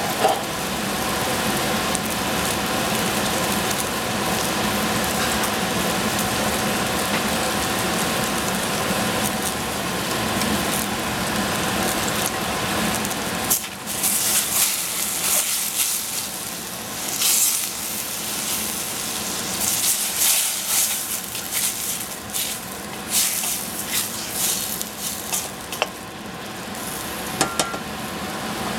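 Egg and oyster mushrooms sizzling steadily as they fry in a small stainless steel saucepan. About halfway through, a wooden spoon starts stirring them, giving irregular scraping strokes against the pan over the sizzle.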